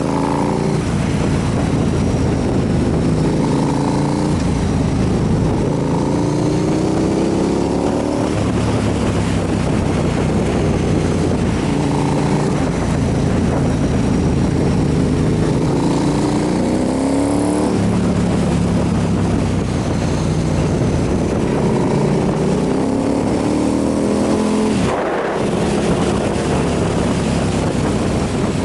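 Motorcycle engine pulling through the gears: its pitch climbs again and again, each rise cut off by a shift, over a steady rush of wind noise. Near the end the pitch drops sharply as the throttle closes, then climbs again.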